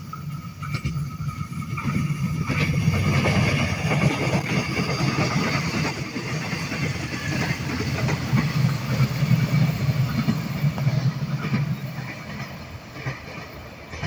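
Train approaching and passing, its diesel locomotive engine running with a heavy low hum that builds about two seconds in and eases off near the end.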